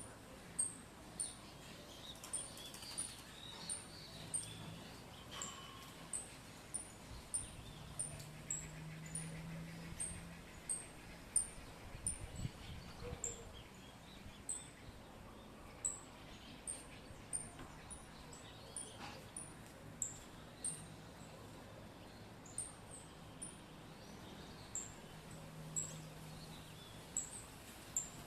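Bird chirping: short, high, thin chirps repeated about once or twice a second, over a faint low hum.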